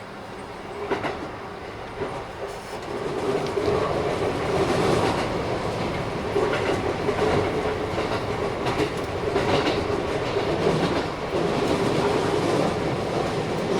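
Keikyu 1000-series EMU (Mitsubishi IGBT drive) running, with wheels clacking over rail joints above a steady hum. It gets louder about three seconds in. This train set is noted as a little noisier than others of its class.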